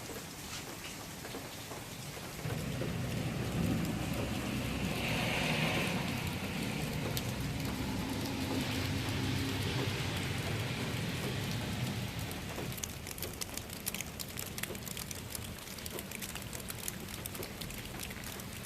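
Steady rain falling, with scattered sharp drips. From about two seconds in, a louder low rumble joins the rain and fades out about twelve seconds in; after that the drips stand out more clearly.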